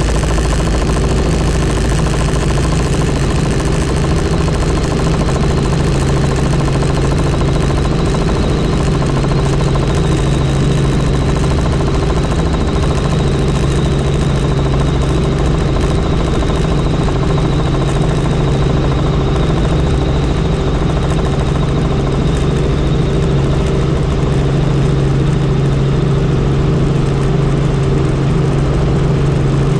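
Helicopter in flight: a steady, unbroken drone of rotor and engine, with a thin steady high whine above it.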